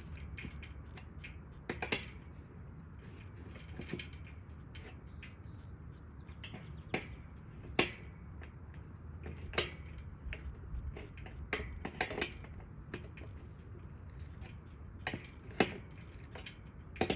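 Scattered sharp metallic clinks at irregular intervals, one every second or two, from a washer, nut and wrench being worked onto a gate's threaded-rod hinge. Steady low wind rumble on the microphone underneath.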